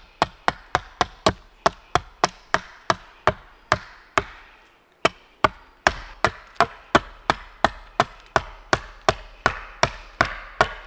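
Small hatchet (Hultafors Agelsjön) chopping into a wooden pole to cut a bevel at its end. Quick, sharp strokes come about three a second, with a short pause in the middle.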